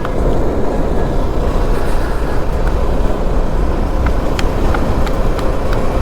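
Motorcycle being ridden at a steady pace: engine and wind noise on the rider's microphone, with a few faint clicks.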